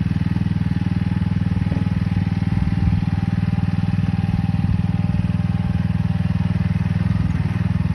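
BlueBird Mex 600 mini excavator's engine running steadily with a fast, even throb.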